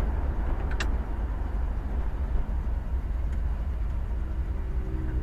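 Low, steady exhaust rumble of a 1962 Chevrolet Biscayne's bored-over 350 small-block V8, heard from inside the cabin while driving slowly. It runs through replacement mufflers fitted in place of MagnaFlows to cut back-seat drone. A single sharp click comes about a second in.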